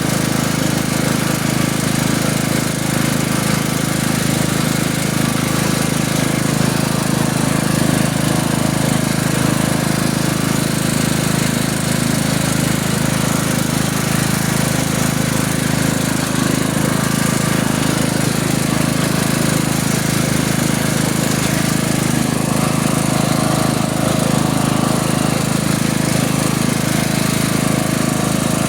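Tractor engine running at a steady speed, loud and unchanging throughout.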